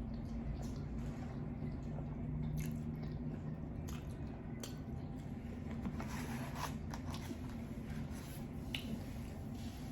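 Eating lo mein: chewing and slurping mouth sounds with scattered small clicks and smacks, over a steady low hum.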